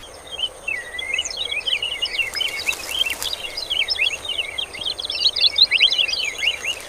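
Dense, rapid chirping of small birds, with a steady high insect buzz beneath.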